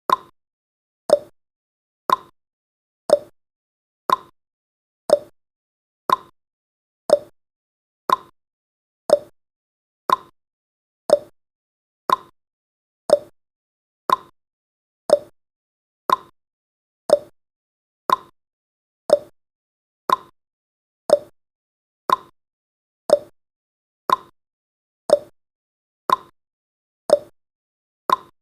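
Clock ticking sound effect of a countdown timer: one sharp tick a second, alternating between a higher and a lower click like a tick-tock.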